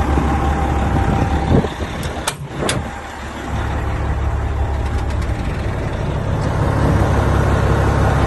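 Cat 740 articulated haul truck's diesel engine idling with a steady low rumble. About two seconds in there are a few sharp knocks and clicks as someone climbs up into the cab.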